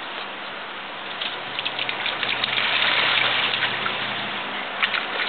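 Steady hiss of rain falling on a wooden deck, with scattered small splashes from puppies wading in a plastic kiddie pool.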